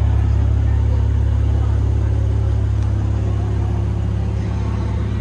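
Mercedes-AMG C43 coupe's engine idling steadily, getting a little fainter near the end.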